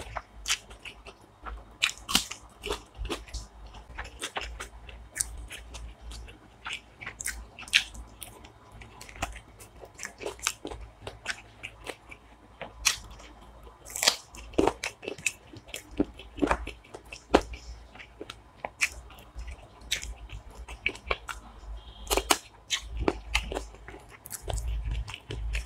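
Close-miked chewing and biting of chicken curry and rice eaten by hand, with many sharp, irregular wet mouth clicks and occasional crunches.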